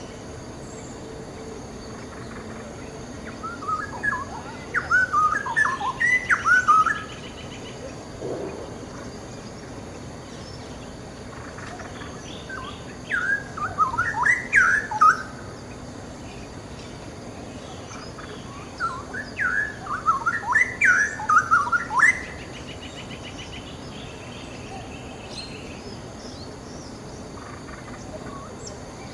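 Straw-headed bulbul (cucak rawa) singing three loud phrases of rapid notes that jump up and down in pitch, each about three seconds long, with pauses of several seconds between them over a steady hiss.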